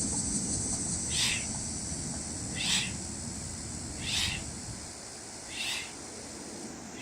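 Short, forceful hissing 'shh' breaths from a person, repeated four times about a second and a half apart: the 'shh' exhale of the qigong six-healing-sounds practice, done once per repetition of the movement.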